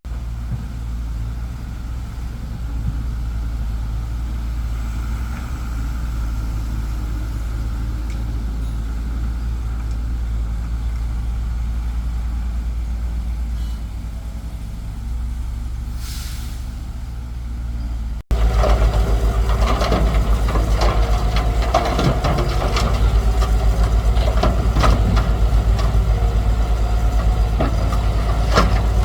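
Excavator's diesel engine running steadily with a low hum; about two-thirds of the way through it becomes suddenly louder, with rattling and clanking.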